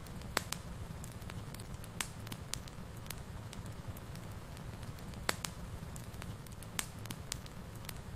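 Wood fire burning in a fireplace: a steady low rumble of flame with irregular sharp crackles and pops, a few of them louder than the rest.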